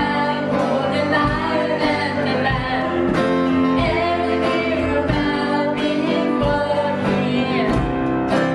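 Worship band playing a song: singing with acoustic guitar strumming at a steady beat.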